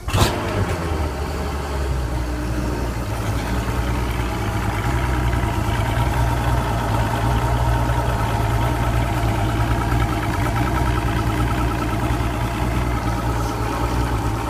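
Boat outboard motor cold-starting: it catches at once with a sharp burst, then settles into a steady idle.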